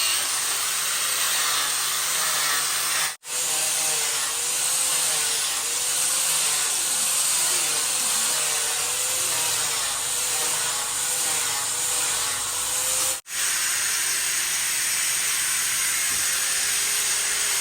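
A handheld power tool cutting or working wood: a steady, loud hiss with a motor tone that dips and recovers over and over as the tool takes load. The sound breaks off abruptly twice, about 3 and 13 seconds in.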